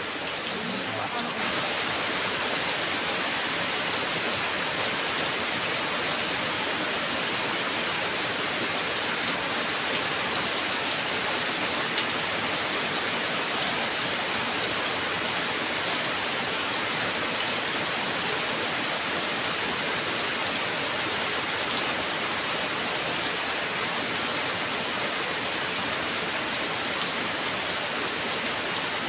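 Heavy rain falling steadily: an even hiss of drops with a few sharper ticks of single drops.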